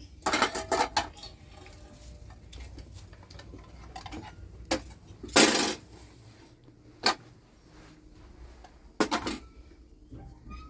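Dishes and cutlery clinking and clattering in a handful of separate knocks, the longest clatter about halfway through.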